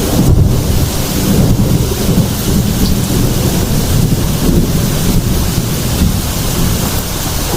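Heavy rain falling steadily with deep, continuous thunder rumbling underneath.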